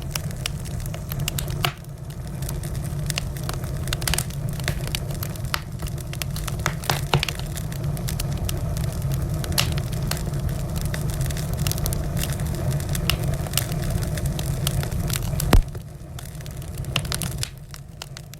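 Wood fire crackling in a fireplace: a steady low rumble of the flames with many sharp, irregular crackles and snaps, and one louder pop a few seconds before the end.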